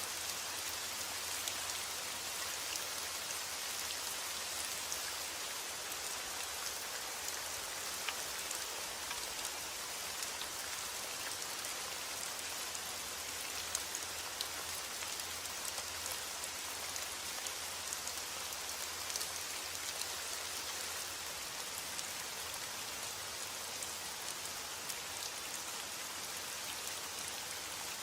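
Steady rain falling, an even hiss with scattered individual drop ticks, unchanging throughout.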